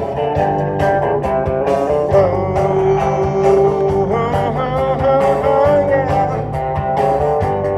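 Live rock-and-roll band playing an instrumental passage: electric guitar with bending notes over bass and drums.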